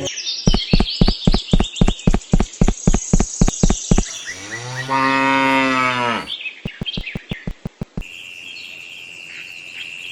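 A cow mooing once, a long call of about two seconds that rises and falls in pitch. Before it comes a fast run of sharp clicks, about five a second, and after it a few more clicks, then a steady high-pitched tone.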